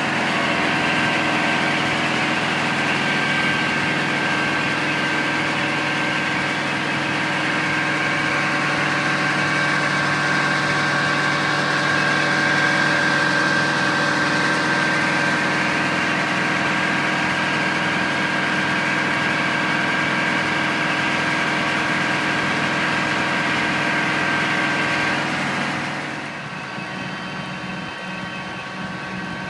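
The fire truck's Detroit Series 92 diesel engine running steadily at idle, with a steady high whine over it. About 26 seconds in, the whine stops and the running gets quieter.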